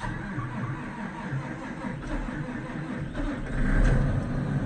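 John Deere 8245R tractor's diesel engine catching on a cold start at about 4 degrees, after a night without being plugged in, and running; it gets louder about three and a half seconds in.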